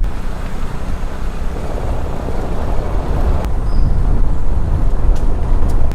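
Van driving over a rough, bumpy road, heard from inside: a steady low rumble of engine and road noise that grows a little louder about four seconds in.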